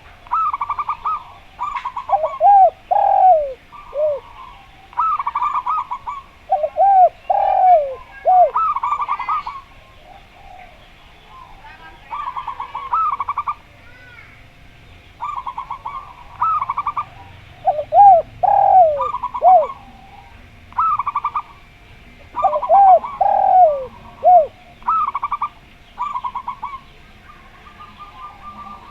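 Zebra doves (perkutut) and a derkuku dove cooing back and forth. The zebra doves give repeated rapid, trilled cooing phrases. Four times the derkuku answers with a lower group of three or four falling coos.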